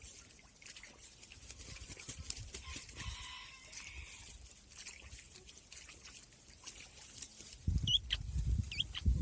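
Farmyard animals calling, with scattered small clicks and a few quick high chirps near the end, over a low rumble that starts about a second and a half before the end.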